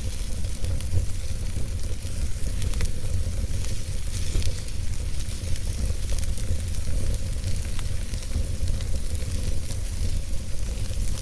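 Fire burning in a fireplace, crackling steadily with many small scattered pops over a soft hiss and a steady low rumble.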